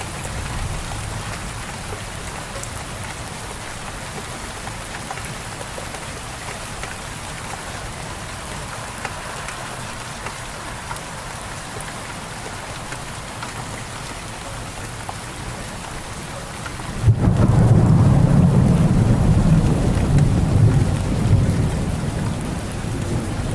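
Steady rain falling, then a loud low rumble of thunder breaks in suddenly about three-quarters of the way through and keeps rolling.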